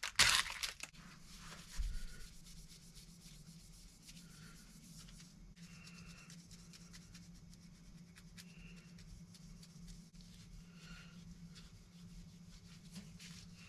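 Sunshine polishing cloth buffing a coffee-etched Damascus steel knife blade: faint, quick rubbing strokes over a steady low hum, with a few louder knocks in the first second.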